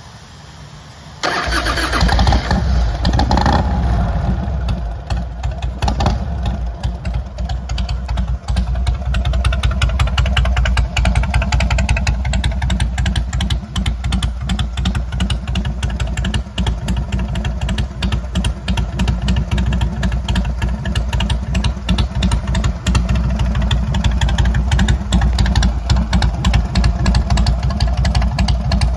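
V-twin motorcycle engine starting up about a second in, running a little higher for the first few seconds and then settling into a steady idle with an even pulsing beat through its exhaust.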